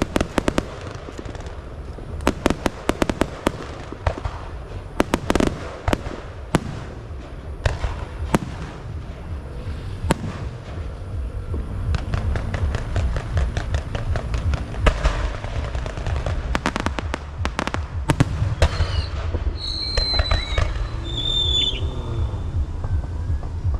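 Fireworks going off in quick clusters of sharp cracks and bangs over a constant low rumble, with a few short whistling tones near the end.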